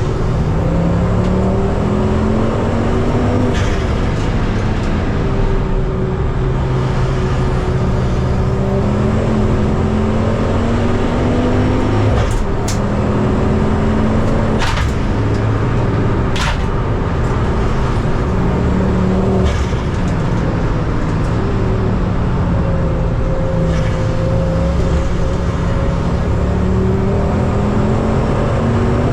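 Race car engine running hard and continuously at close range. Its pitch repeatedly climbs through the revs and drops back, with a few sharp knocks in the middle.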